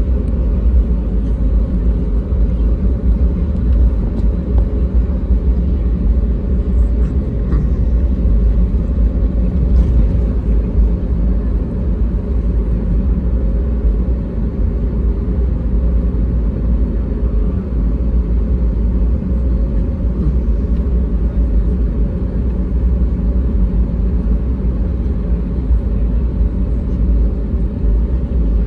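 Steady low rumble inside the passenger cabin of an Airbus A320neo, from its engines.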